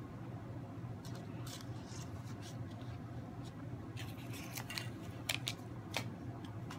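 A man chewing a bite of corn dog close to the microphone: faint scratchy mouth sounds with a few sharper clicks about five and six seconds in, over a steady low hum.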